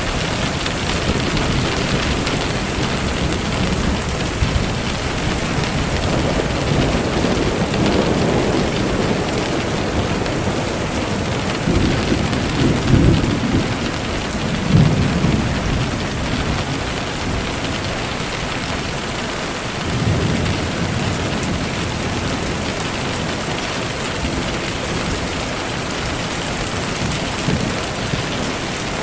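Steady rain falling, with low rolls of thunder rumbling several times, loudest about halfway through.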